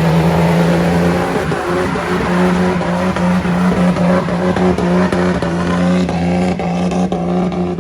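Diesel truck engine running hard at high revs, its pitch held nearly steady, over a rough rushing noise.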